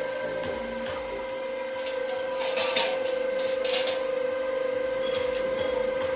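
Cutting machine running: a steady whine, with short bursts of rattling about halfway through and again briefly later.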